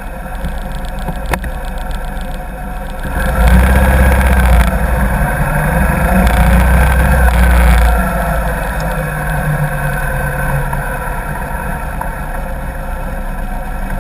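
Motorcycle engine running while riding, with road and wind noise on a bike-mounted camera's microphone. It gets louder for about five seconds from about three seconds in, then settles back to a steady run.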